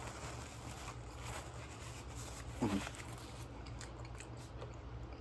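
Close-miked mouth sounds of a person eating, chewing and smacking, over a steady low hum. About two and a half seconds in comes one short, louder low vocal sound from the eater, falling in pitch.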